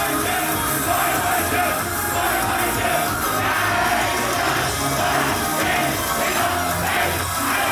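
Live J-pop idol song performed loudly, with young women's voices singing over the music and audience members shouting along.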